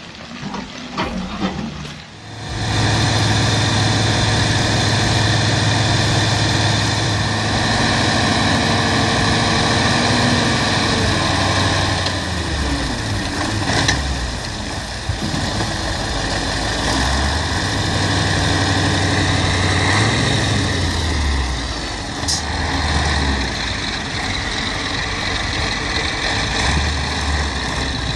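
Heavy vehicle engine running steadily, its low note stepping up and down now and then. It comes in loud about two and a half seconds in, after a quieter start.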